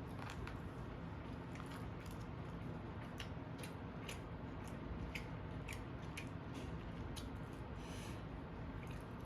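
Close-miked eating sounds: scattered short, sharp crunches and mouth clicks as food is chewed, a few each second, over a steady low hum.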